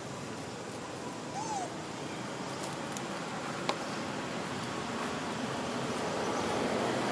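Steady outdoor rushing noise that slowly grows louder, with one short call about one and a half seconds in and a sharp click a little past the middle.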